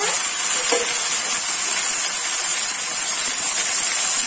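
Cauliflower florets frying in hot oil in a kadhai, a steady loud sizzle.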